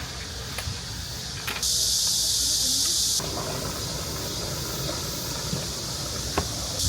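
Cicadas buzzing: a steady high-pitched hiss that swells sharply about one and a half seconds in, cuts back suddenly after about a second and a half, and swells again near the end.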